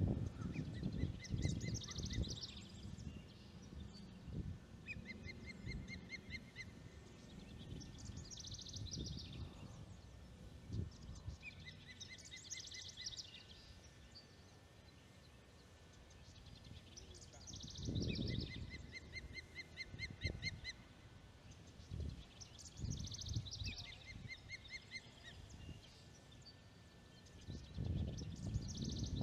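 Osprey calling: repeated series of quick, evenly spaced high chirps, one series every few seconds. Low rumbles and thumps come and go underneath.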